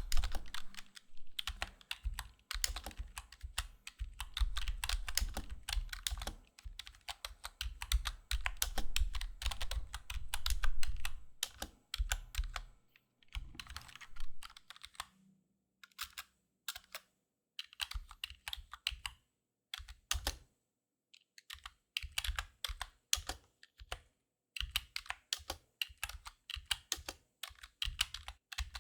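Close-miked keyboard typing. For about the first twelve seconds it is fast and continuous, with heavy low thuds under the clicks. After that it turns into slower, scattered keystrokes with short pauses between runs.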